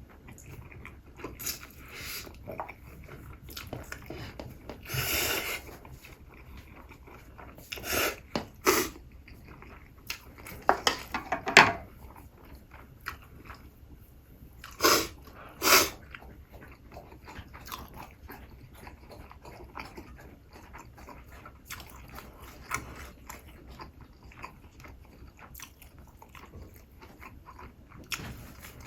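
Close-miked eating of crispy fried chicken: bites and chewing with a handful of louder crunches scattered through, some in quick clusters.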